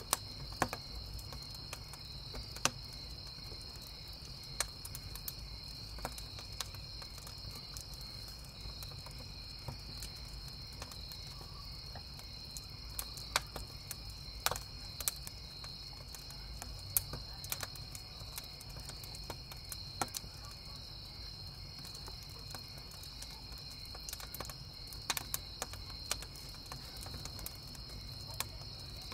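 Crickets chirping steadily in a high, continuous drone, with a wood campfire crackling in sharp, scattered pops over a low steady rumble.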